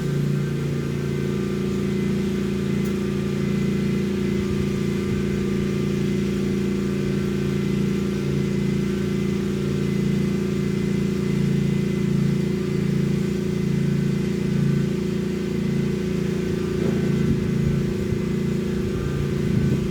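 Lawn mower engine running steadily under mowing load, an even, constant hum.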